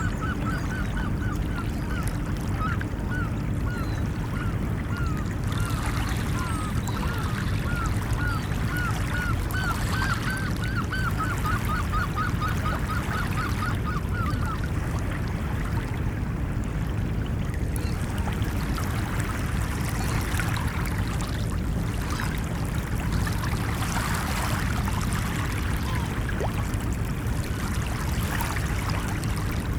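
Steady wash of ocean waves, with a rapid run of short, repeated bird calls, goose-like honks, over it that stops about halfway through.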